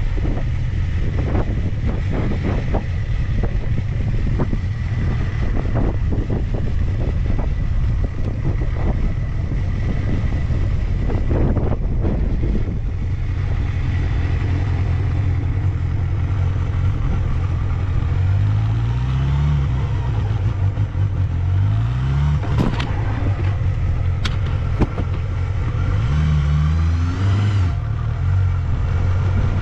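1992 Honda Jade 250's inline-four engine idling steadily, with the throttle blipped several times about two-thirds of the way in and again near the end, the revs rising and falling back. The seller describes the engine as in top condition with no abnormal noise.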